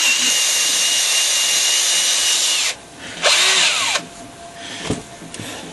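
Power drill running in two bursts: one long run of nearly three seconds with a steady high whine, then a short second run that winds down in pitch as the trigger is released. A single sharp click follows near the end.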